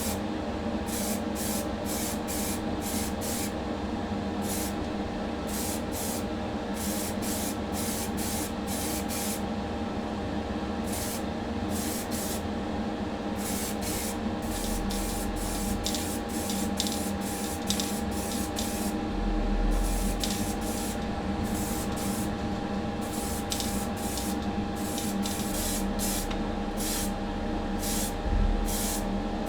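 Paint being sprayed onto the die-cast toy van's parts in many short hissing bursts, over a steady motor hum, as primer and then colour coat go on.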